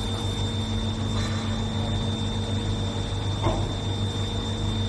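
Steady electrical hum of a hot plate welding machine, with a constant high-pitched whine above it and one faint knock about three and a half seconds in.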